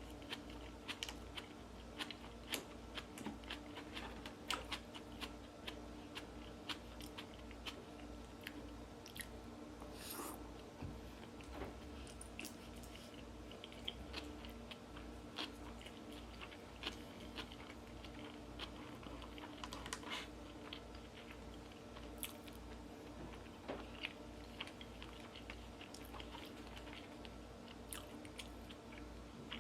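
A person chewing and eating food close to the microphone: many small, irregular mouth clicks and smacks over a steady low hum.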